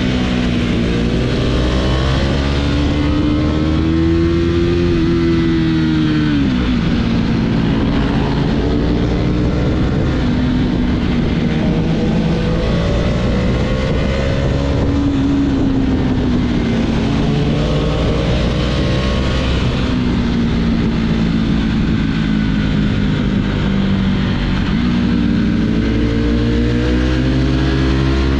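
Husqvarna Vitpilen's single-cylinder engine and exhaust under hard acceleration, the pitch climbing through each gear and dropping sharply at the upshifts, several times over.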